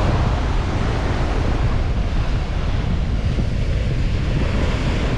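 Steady rush of ocean surf on the beach, with wind buffeting the microphone and adding a heavy low rumble.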